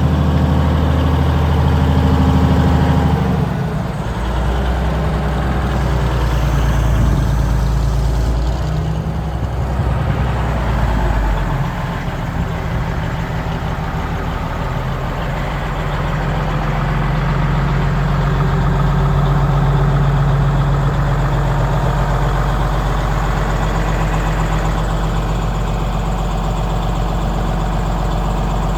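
Engine of a 1976 Drott 2510 truck crane running steadily. Its speed drops about three and a half seconds in and changes again around eleven seconds.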